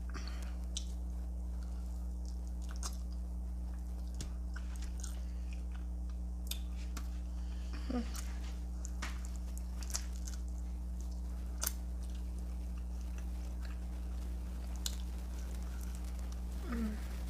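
Close-up chewing and biting into crunchy Flamin' Hot Cheeto–coated fried chicken wings, with scattered sharp crunches every second or two, over a steady low hum.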